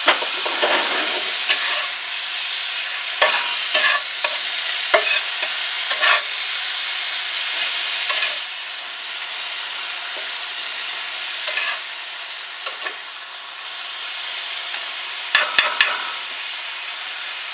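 Steak and vegetables sizzling steadily in a cast iron skillet, with irregular clicks and scrapes of a metal fork stirring and breaking up the meat against the pan, a quick cluster of them near the end.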